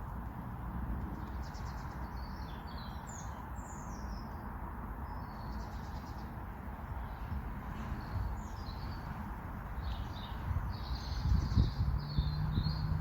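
Small songbirds chirping and twittering in short, irregular phrases over a steady low rumble. A low hum joins near the end.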